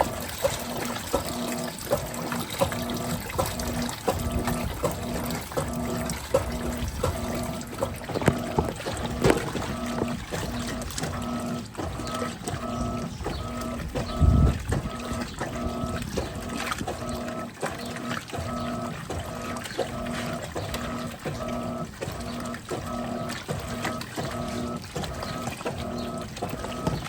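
Electrolux Turbo Capacidade Premium 15 kg top-loading washing machine agitating a load in full water: the motor hum cuts in and out in a steady quick rhythm as the agitator swings back and forth, over sloshing water. A single low thump about fourteen seconds in.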